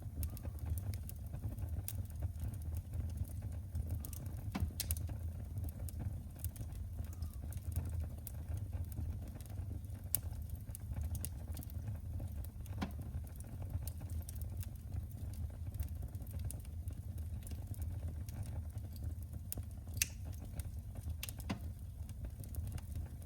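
Wood fire crackling in a fireplace: a steady low rumble of the flames with scattered sharp pops and snaps, two of the sharpest about ten and twenty seconds in.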